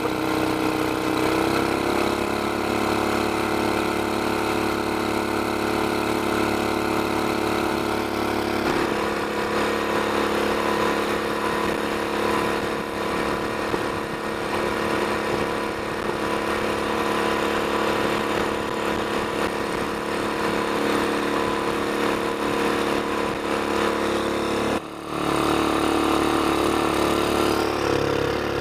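A mud motor's small gasoline engine, fitted with an aftermarket header and muffler, running steadily under way. Its note changes abruptly a couple of times, and there is a brief sudden dip in the sound near the end.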